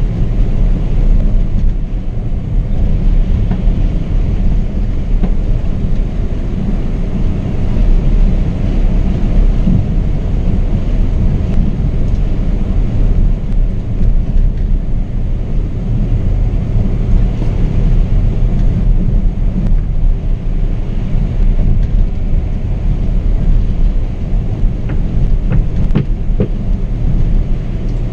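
Double-decker coach on a Scania K420 chassis driving along the highway: a loud, steady low rumble of engine, tyres and road noise, heard from the driver's seat.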